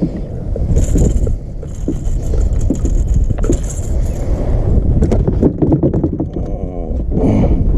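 Wind buffeting the microphone in a heavy low rumble, with scattered knocks and rattles from handling.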